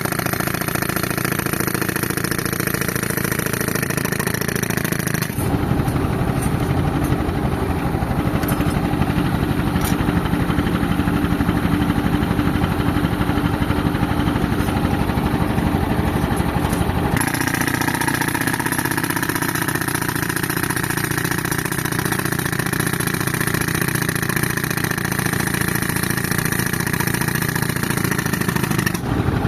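Tractor engine running a tractor-mounted air compressor on a demolition job. The sound changes abruptly about 5 seconds in and again about 17 seconds in.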